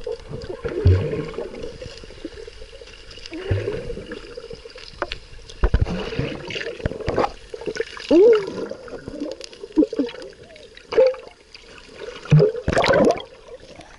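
Sea water splashing and sloshing around a swimmer, in irregular bursts with a few sharp splashes, and faint voices in the background.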